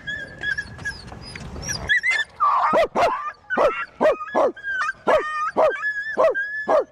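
A dog whining on a high, held note, then barking in a rapid run of about two to three barks a second from about two seconds in.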